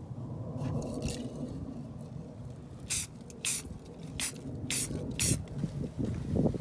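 A run of five or so short hissing bursts, roughly half a second apart, beginning about three seconds in, over a steady low rumble.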